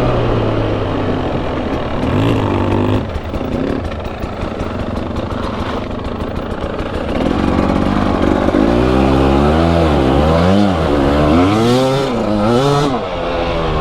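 Motorcycle engine running, blipped briefly a couple of seconds in, then revved up and down repeatedly in the second half.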